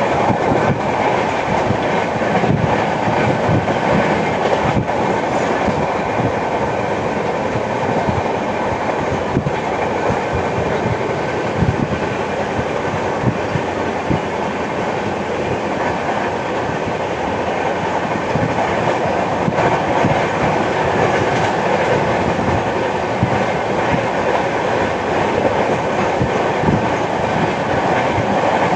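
Passenger express coaches running at speed on the track, heard from on board: a steady rumble of wheels on rail with an irregular clickety-clack of knocks.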